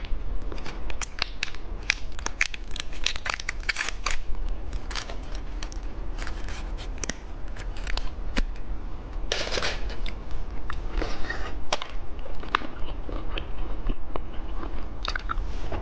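Plastic candy packaging crinkling and crackling as it is handled and opened, with many sharp clicks and a few longer crinkly stretches.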